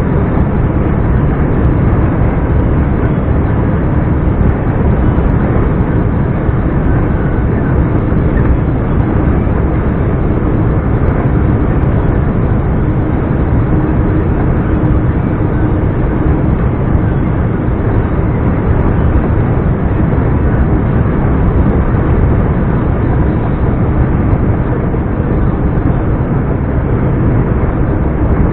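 2007 Scania R420 truck's straight-six diesel engine running steadily while driving, a deep even drone with no marked revving or gear changes.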